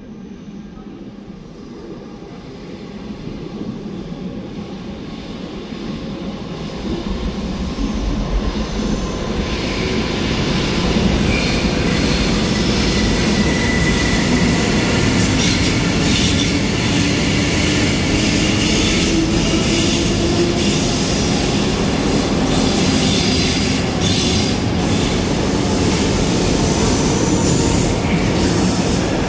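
Double-deck electric S-Bahn train running along the platform of an underground station: its rumble grows louder over the first ten seconds, then holds steady. A thin high wheel squeal comes briefly in the middle, and a rising motor whine a few seconds later.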